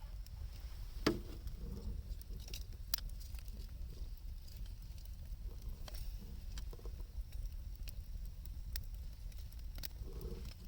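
Wood fire burning, with occasional sharp crackling pops a second or more apart over a low steady rumble.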